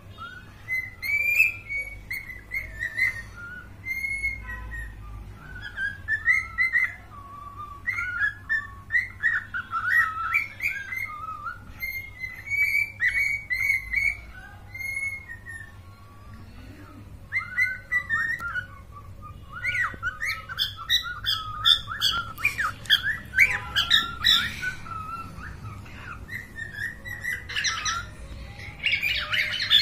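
Cockatiel chirping and whistling in quick runs of short notes that glide up and down, with a pause of a couple of seconds midway.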